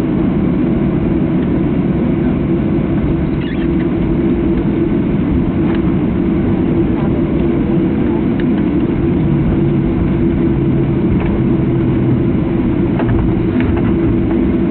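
Boeing 737-700's CFM56-7B jet engines and airframe running with a steady loud hum, heard from inside the passenger cabin.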